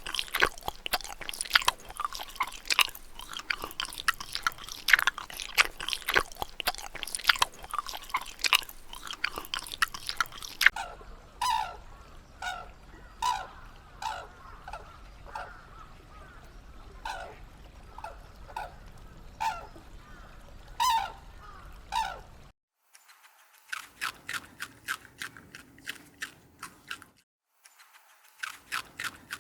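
An animal crunching and chewing food: rapid crisp clicks and crunches. Partway through, short high calls come in, about one a second, among the crunching. The sound cuts out abruptly twice.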